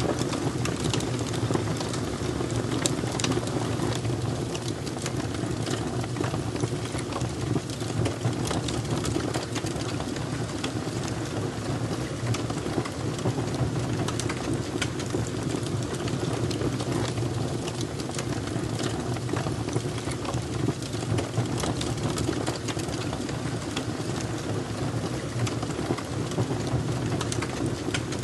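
Crackling wood fire: a continuous scatter of small pops and snaps over a steady low rumble.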